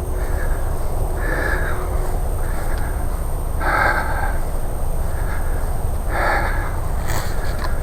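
A crow cawing three times, harsh calls about two and a half seconds apart, over a steady low rumble.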